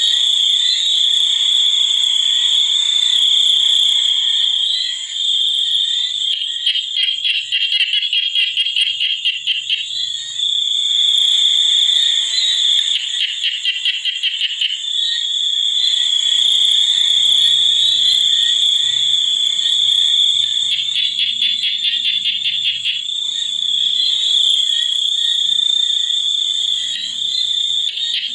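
Chorus of frogs and insects: a steady high-pitched trilling with several bouts of fast pulsing, and low repeated croaks in the second half.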